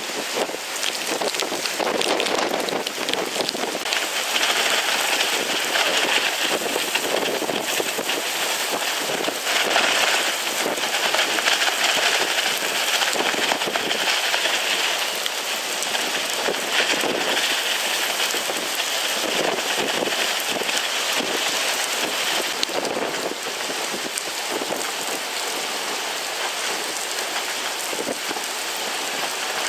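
Steady rush of heavy, wind-driven rain from a hurricane's outer band, heavier through the middle stretch.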